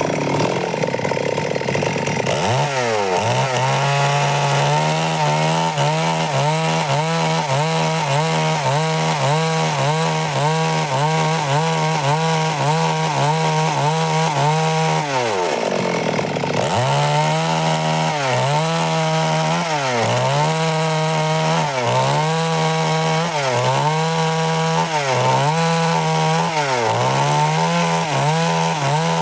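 Stihl MS 382 two-stroke chainsaw running at high revs while cutting wood. The engine revs up sharply a couple of seconds in. About halfway through, it drops off briefly and revs back up. After that its pitch dips and recovers over and over, roughly every second and a half, as the chain loads in the cut.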